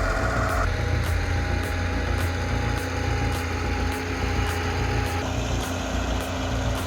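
A bulldozer's engine running steadily with a low rumble, under background music with a steady beat.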